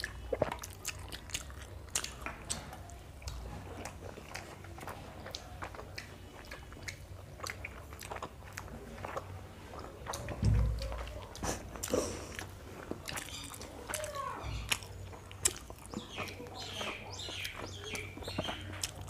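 Close-miked eating: people chewing soft, syrup-soaked rasgullas, with wet smacking and many small clicks of the mouth.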